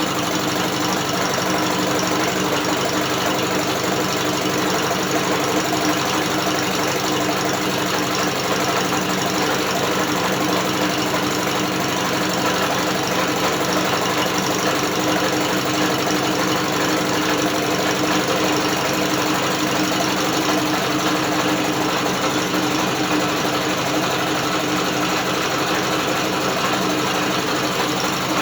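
British Seagull outboard motor being turned over by an electric drill rather than running on its own, giving a steady, even mechanical running sound.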